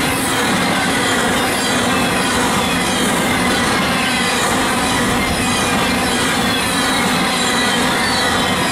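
An intermodal freight train's cars rolling steadily past at close range: continuous wheel-on-rail noise with high, drifting squealing tones from the wheels.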